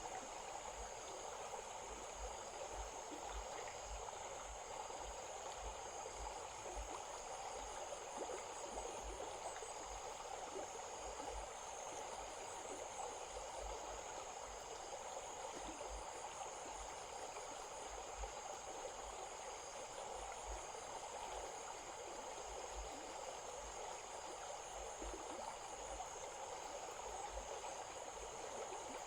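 Small stream running steadily, with insects keeping up a high, steady drone and faint rapid chirping behind the water.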